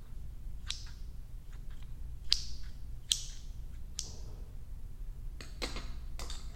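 Scissors snipping: four separate crisp snips, each with a short swish, then a quicker run of snips near the end.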